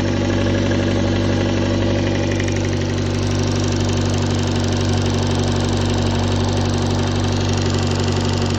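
Toyota 4A-FE four-cylinder engine idling steadily with a knock, which the owner suspects comes from the camshaft or valves.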